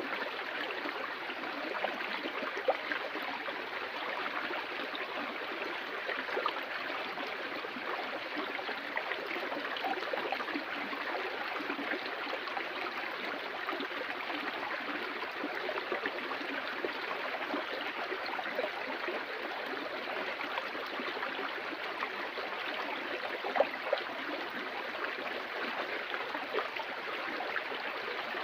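Water flowing steadily in a stream, a continuous rushing with small splashes and gurgles.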